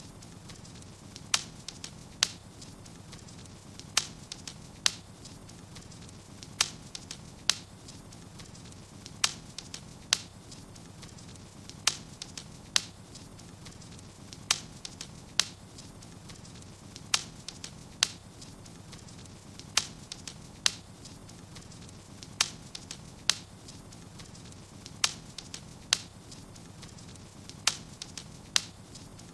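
Wood fire in a fireplace crackling, with sharp pops that come in pairs about a second apart, a pair every two to three seconds in an even repeating pattern, over a low steady hum.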